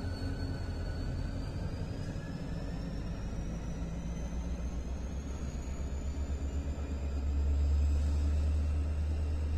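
Freight train rolling past close by, container and boxcar cars going by: a steady low rumble that grows louder about seven seconds in, with a faint high whine slowly rising in pitch.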